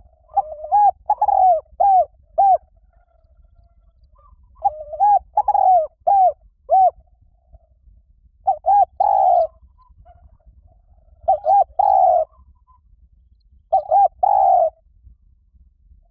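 Spotted dove cooing: five phrases about three to four seconds apart, each a quick run of short coos, the later phrases ending on a longer coo.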